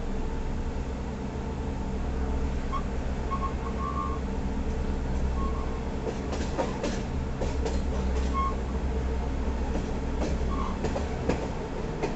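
Passenger train running slowly, heard from beside a carriage: a steady low rumble with a steady drone. From about six seconds in there are sharp clicks of wheels over rail joints, and a few brief faint squeals.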